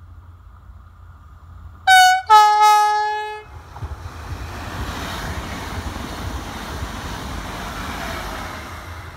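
Train horn sounding a short high note and then a longer lower note, followed by a train passing with a steady rumble of wheels on rails that eases off near the end.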